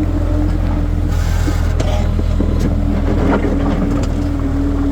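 Skid steer engine running steadily with a steady hum, with a few short knocks from the machine at work.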